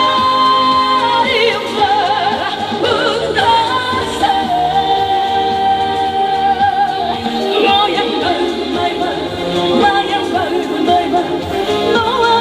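Live band music of a Korean pop song with a woman's sung melody, including long held notes with vibrato, one held for about three seconds midway.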